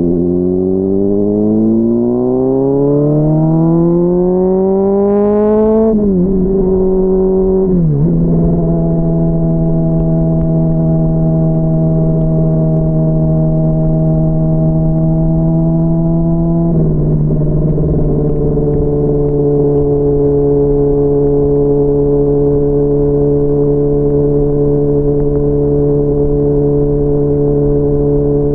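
Honda CBR600RR's inline-four engine pulling up through the revs, then shifting up twice in quick succession about six and eight seconds in. It settles into a steady cruise, shifts up once more around seventeen seconds in, and cruises on at steady revs. It is heard muffled, through a mic inside the rider's backpack.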